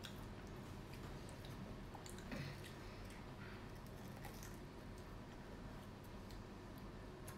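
Quiet chewing and biting of breaded fried mozzarella bites, with scattered faint mouth clicks.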